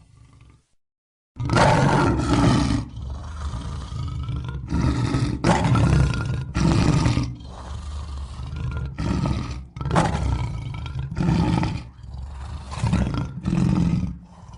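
Lion roaring: after a short silence, a long run of loud roars and grunts follows one after another, the strongest in the first half.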